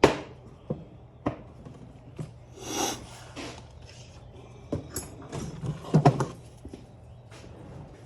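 Tools and parts being put away on a workbench: a sharp knock at the start, scattered clinks and clunks, a scraping slide about three seconds in and a clatter of handling about six seconds in, over a steady low hum.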